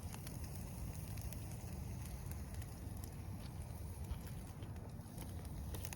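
Wood campfire burning, with scattered faint crackles over a steady low rumble.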